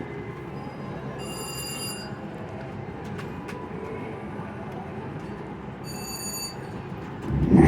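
Casino floor ambience: a steady hum of machines and people, with two short electronic chimes from slot machines, one about a second in and one about six seconds in. Near the end, loud electronic slot machine music starts up.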